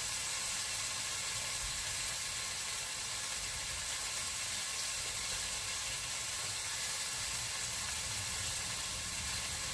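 Kebabs sizzling as they cook, a steady even hiss.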